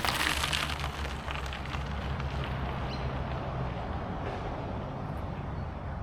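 Steady wind buffeting the microphone with a low rumble, as from riding a bike along a trail. It is a little louder at the start.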